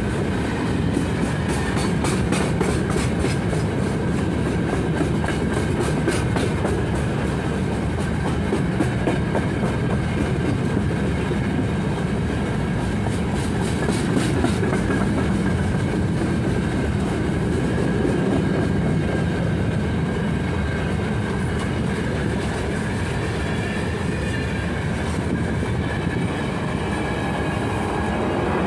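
A long freight train of open-top gondola wagons rolling past close by, a steady heavy rumble of wheels on rail. Wheel clacks come through it, with a thin steady whine above.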